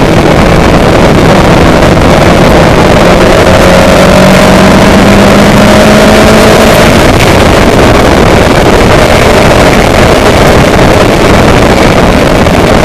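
Loud, steady engine noise with a rushing of wind, its pitch rising slightly for a few seconds in the middle.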